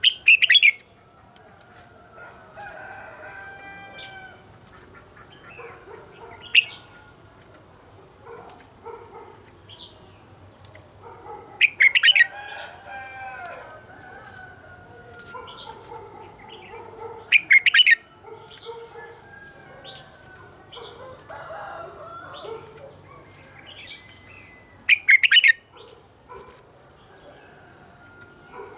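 Red-whiskered bulbul song: soft warbling phrases throughout, broken five times by a loud, brief, sharp burst.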